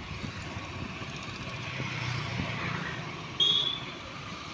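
Road traffic noise: a steady rumble and hiss of passing vehicles, with a brief, loud, high-pitched beep about three and a half seconds in.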